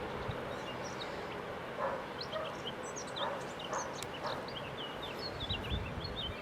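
Small birds chirping in quick, busy bursts over a steady outdoor hum, with a dog barking a few times.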